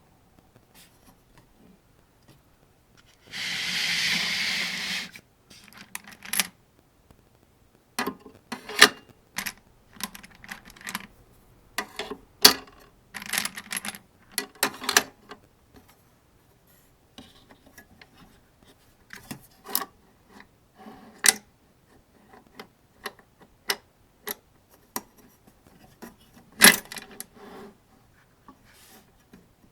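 Cartridges being handled and loaded into an AK-47 75-round drum magazine: a series of sharp metallic clicks and clacks at irregular intervals, with a scraping rub lasting about two seconds a few seconds in.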